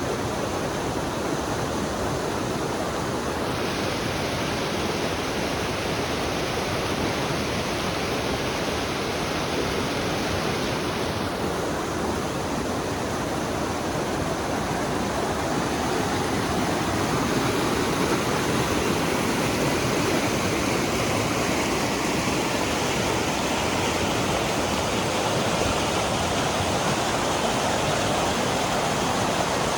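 Steady rushing of moving water, getting a little louder about halfway through.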